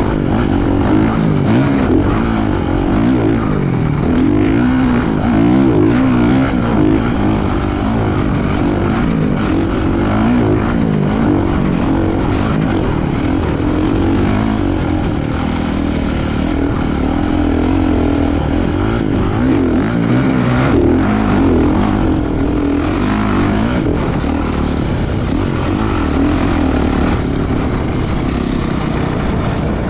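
Motocross dirt bike engine running hard, its pitch rising and falling over and over as the throttle opens and closes.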